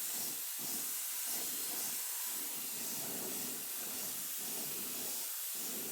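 Compressed-air paint spray gun hissing steadily as it sprays paint onto a garden tractor.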